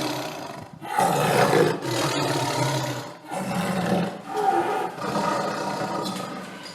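Lion roaring, a series of several long, rough roars with short breaks between them.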